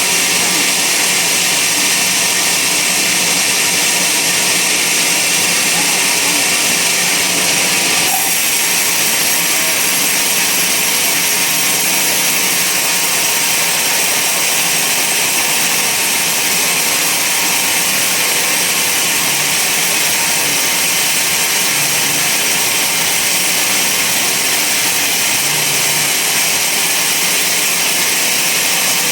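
Band sawmill running steadily, its blade sawing through a large log with a continuous loud hiss and motor drone. The tone shifts slightly about a third of the way in.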